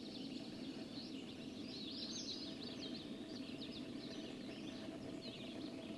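Several birds chirping and singing in a pre-dawn chorus, many short quick notes overlapping, over a faint steady low hum.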